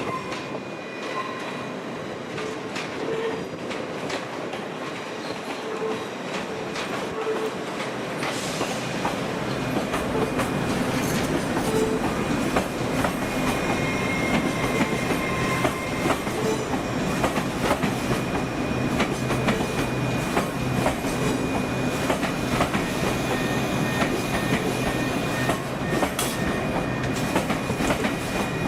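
A train moving through the station, its wheels clicking over rail joints and points, growing steadily louder as it comes closer.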